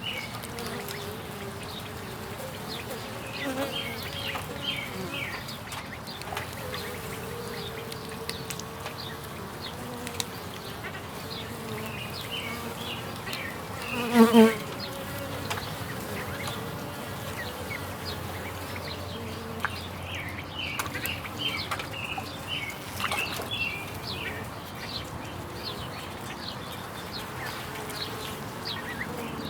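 Honey bees buzzing steadily in flight. About halfway through, one bee flies close past the microphone with a brief, loud buzz.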